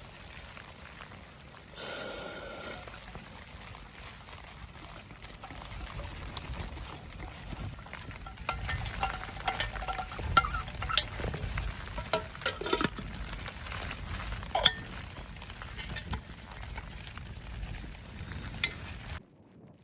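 Food sizzling in a pan, stirred, with scattered scrapes and clinks of a metal utensil. The sound cuts off abruptly near the end.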